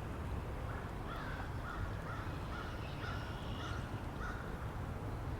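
A bird giving a quick run of short, repeated harsh calls from about a second in to past the middle, over the steady low rumble of wind.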